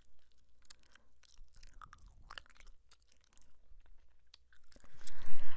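Bubblegum chewed close to a microphone: a run of short wet smacks and clicks from the mouth, with a louder breathy noise near the end.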